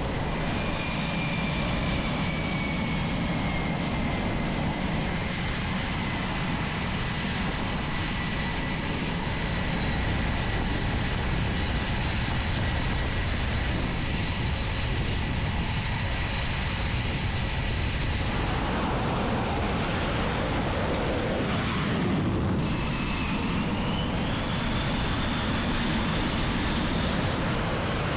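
Jet aircraft engines running with a steady roar and a high turbine whine. About two-thirds of the way through the sound shifts, and a whine rises in pitch as an engine spools up.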